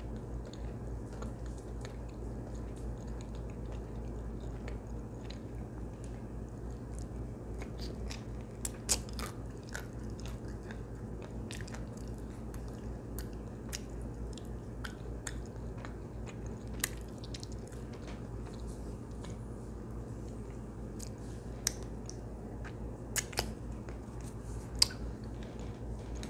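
Quiet close-up chewing and mouth sounds from eating a chocolate-coated ice cream bar, with a few sharp clicks scattered through. A steady low hum runs underneath.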